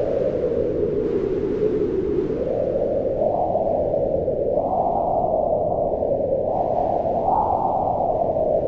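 Howling mountain wind, a steady rush whose pitch slowly swells up and falls back every couple of seconds.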